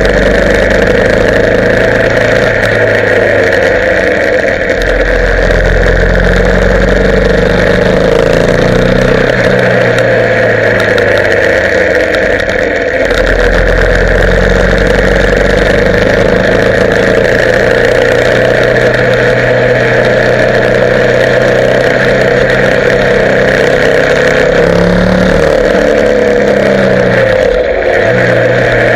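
Motorcycle engine running while riding, its pitch stepping up and down with throttle and gear changes, with a brief rev about 25 seconds in. Steady road and wind noise runs underneath.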